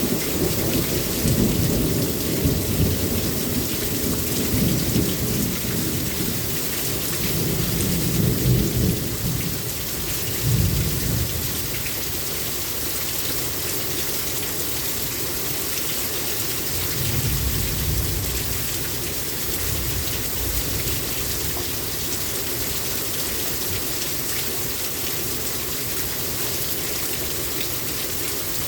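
Heavy rain pouring steadily in a thunderstorm. Thunder rumbles through roughly the first ten seconds, and a shorter roll comes around the middle.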